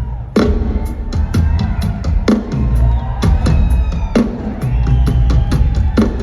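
Live drum kit solo: heavy snare or tom strikes land about once a second over a low rumble of bass drum and toms, with fast hi-hat or cymbal ticks between them.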